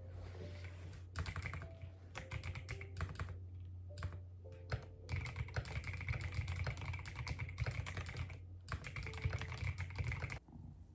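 Typing on a computer keyboard: quick runs of key clicks with short pauses, stopping near the end.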